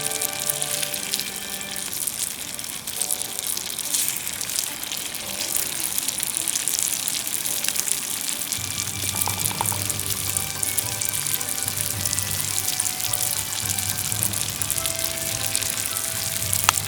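Oil sizzling and crackling in a cast-iron skillet, a dense steady spatter of small pops. Background music plays along, with a bass line coming in about halfway through.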